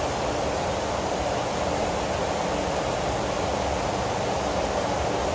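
Heavy rain falling in a steady downpour, an even rushing noise with no breaks.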